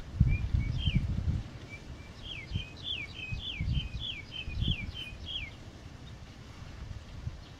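A songbird sings a quick run of about ten short, falling whistled notes, a few each second. Low thuds and rustling come with it and are loudest in the first second and a half.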